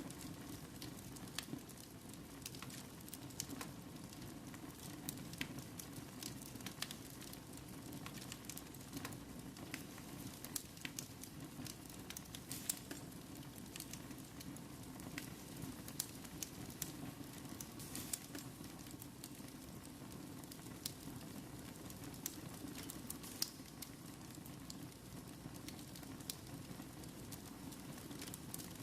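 Wood fire burning in a fireplace: a steady soft hiss with frequent, irregular sharp crackles and pops.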